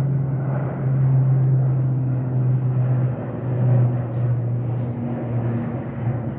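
Turboprop engines and propellers of a PIA ATR airliner running, a loud steady low drone over a rumble that dips briefly about three seconds in.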